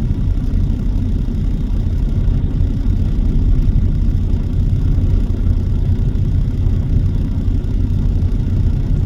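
Truck running on the road: a steady, low engine and road rumble with no sharp events.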